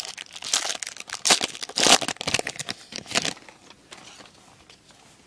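Foil wrapper of a trading-card pack crinkling and tearing as it is opened, the crackle dying away a little after three seconds in.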